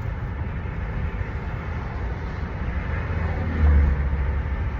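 Car road noise heard from inside the cabin while driving: a steady low rumble of engine and tyres, swelling briefly louder about three and a half seconds in.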